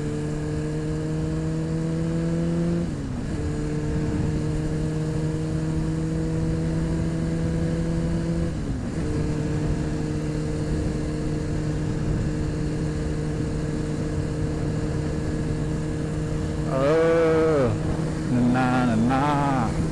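Honda CBR600RR inline-four engine pulling under gentle acceleration, its pitch climbing slowly and dropping sharply at two upshifts, about three and nine seconds in, then holding steady at a cruise, heard through a mic inside the rider's helmet. A man's voice comes in near the end.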